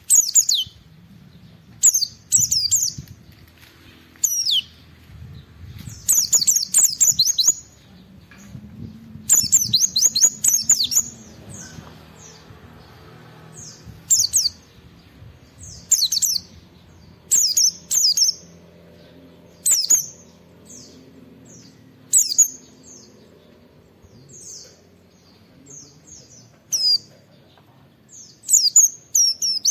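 Pleci (white-eye) singing vigorously: quick, high twittering phrases of falling notes every second or two, some running on for a second or two. It is the full 'gacor' song of a bird challenging a rival.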